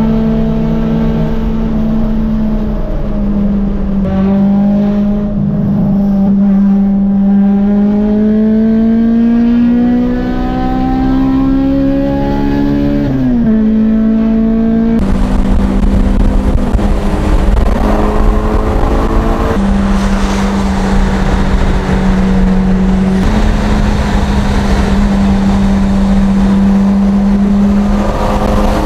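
Car engine heard from inside the cabin at highway cruising speed, droning steadily. Its pitch climbs slowly as the car gathers speed, then drops sharply at a gear change about 13 seconds in. From about halfway a louder rush of road and wind noise joins it, and the pitch shifts again near the end.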